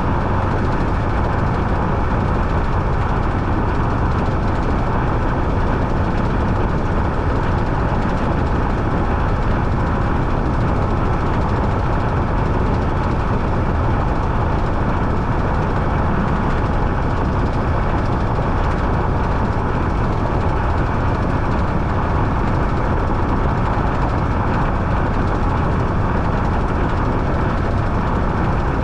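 Washing machine running steadily, a loud, even mechanical hum and drum noise with no pauses or changes.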